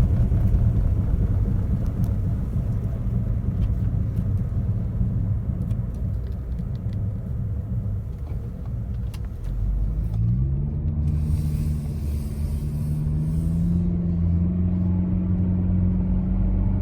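Honda HR-V on the move: tyre and road rumble with engine noise, and the rhythmic rubbing of brake rotors rusted from two weeks of sitting. About ten seconds in, the engine note rises as the car speeds up, then holds steady.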